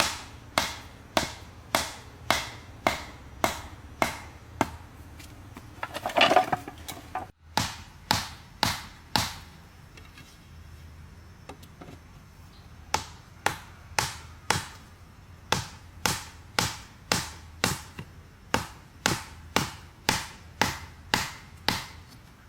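Repeated chopping strikes into wood, about two a second, with a louder, noisier crack about six seconds in and a pause of a few seconds before the chopping resumes.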